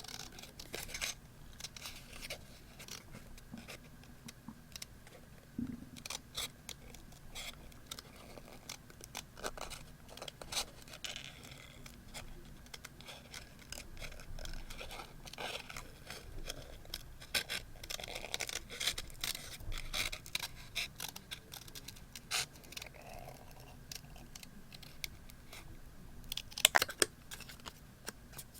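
Scissors cutting paper, with paper scratching and scraping in between: many short snips and rustles, and a quick cluster of louder clicks near the end.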